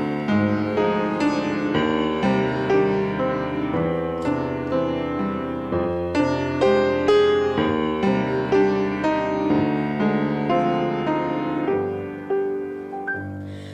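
Piano playing an instrumental interlude of flowing melody over chords between verses of a hymn, no voices, fading away near the end.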